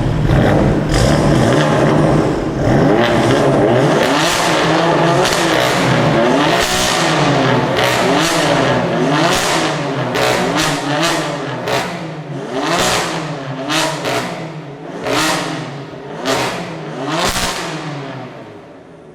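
BMW performance car engine revving hard over and over, its pitch rising and falling about once a second, with sharp cracks from the exhaust. The sound fades over the last few seconds.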